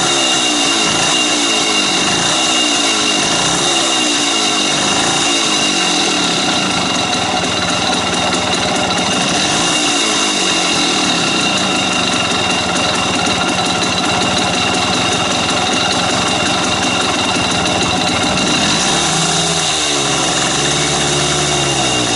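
Vehicle engine running steadily through an aftermarket exhaust muffler, with a brief rise and fall in pitch near the end.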